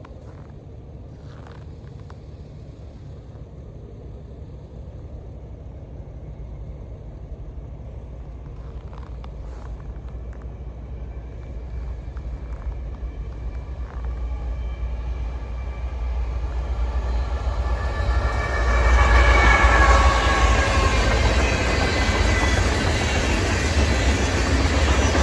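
CSX freight train Q626, led by diesel locomotive CSX 3194, approaching: a low engine rumble grows steadily louder and reaches full volume about three-quarters of the way through as the train draws level, with rail and wheel noise over it.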